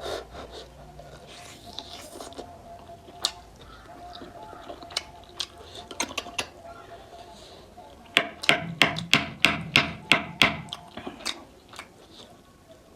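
Close-up eating sounds from a mutton nalli meal: chewing and handling of the bones, with scattered clicks. About eight seconds in comes a quick run of about a dozen sharp clicks or taps, roughly five a second.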